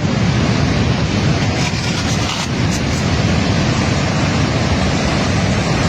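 Glacial outburst floodwater rushing in a steady, dense roar heaviest in the low range, with no breaks.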